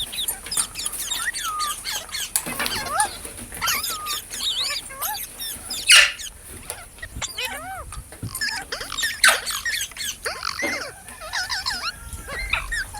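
Parrots chirping and chattering in quick succession, many short rising and falling calls, with two louder squawks about six and nine seconds in.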